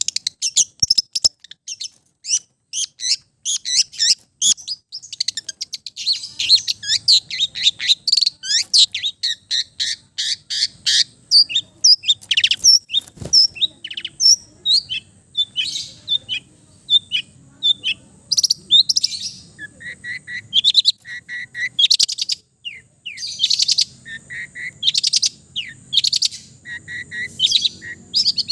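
Long-tailed shrike (cendet) singing: a fast, unbroken string of varied chirps, trills and whistles, full of mimicked calls of other birds. A thin steady high tone runs under it from about halfway.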